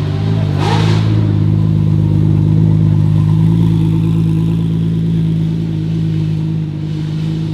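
Porsche 911 GT2 RS Clubsport's twin-turbo flat-six running at a steady engine speed, a low even drone that eases off slightly near the end.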